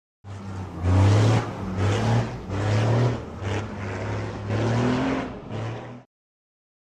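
KAMAZ truck's diesel engine revving hard in repeated surges about once a second, then cutting off suddenly about six seconds in.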